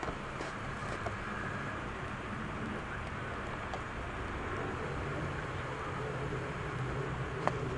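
Steady low engine drone that grows slightly louder toward the end, with a few faint clicks.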